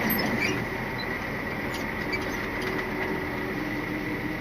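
Scania R450 lorry's six-cylinder diesel running at low speed, heard from inside the cab as a steady hum with a faint high whine and a few light ticks.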